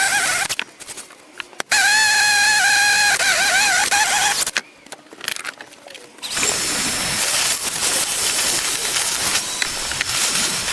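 Electric drill boring holes in plywood: two spells of motor whine whose pitch wavers as the bit bites, the second about two and a half seconds long. About six seconds in, a steady, hissy power-tool cutting noise starts.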